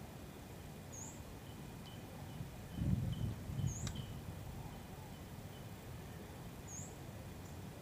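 Small birds chirping: one short, high chirp repeated about every three seconds over a run of quieter short notes. A brief low rumble comes about three seconds in, with a single click just after it.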